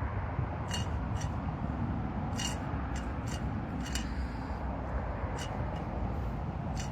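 Steady low outdoor background rumble, with about eight light, sharp clicks scattered through it.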